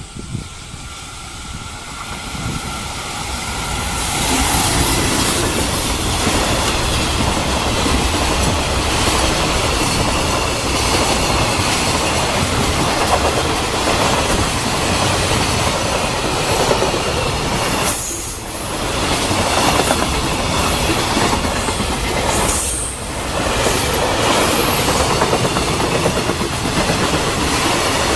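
Freight train hauled by a JR Freight EF210 electric locomotive passing at speed with a long rake of container wagons. The noise of wheels on rails swells over the first few seconds as the train arrives, then holds as a loud, steady rolling rush, briefly dropping twice in the second half.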